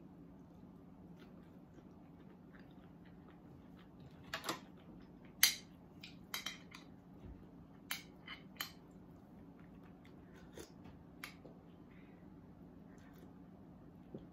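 Close-up eating sounds: chewing with a scatter of short, sharp mouth clicks and smacks, clustered in the middle and loudest about five seconds in, over a faint steady low hum.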